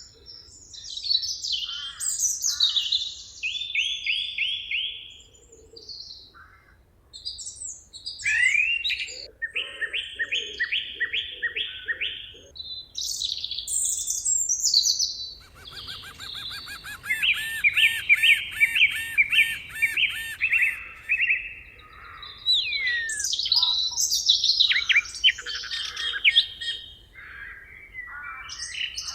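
Several songbirds singing at once, overlapping phrases of repeated high chirps and trills. One bird holds a fast, even trill for several seconds about halfway through.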